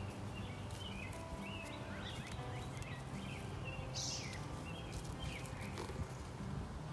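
Small birds chirping, short quick calls repeated again and again over a faint steady low hum.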